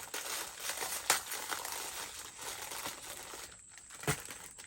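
Plastic being handled: crinkling and rustling with scattered small clicks, a sharp click about a second in and a single knock near the end, as plastic chicken-feeder parts are worked with.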